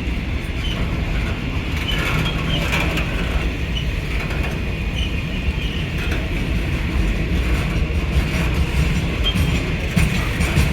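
Running noise heard inside a passenger train carriage: a steady low rumble of wheels on rail, with a few knocks and brief high squeaks.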